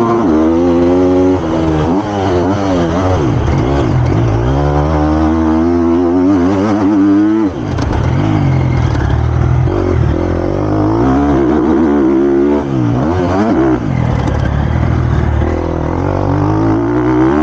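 Triumph TF250-X single-cylinder four-stroke motocross engine being ridden hard. The revs climb and fall over and over as the throttle is opened and rolled off. There is a sudden sharp drop about seven and a half seconds in.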